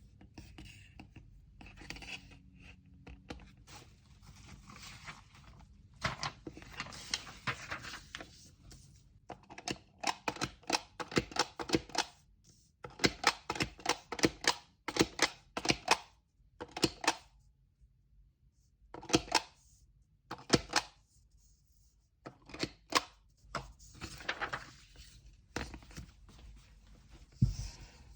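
Hands packing orders: paper rustling and crinkling in a few spells, among many quick light clicks, taps and knocks of items and supplies being picked up and set down.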